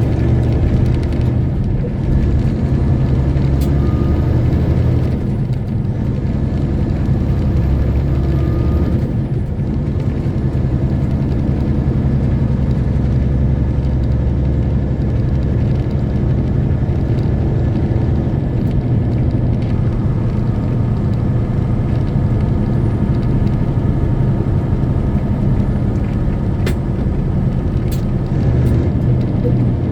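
Semi truck's diesel engine running steadily under way, with road noise. The engine sound dips briefly a few times in the first ten seconds, and there are a few sharp clicks near the end.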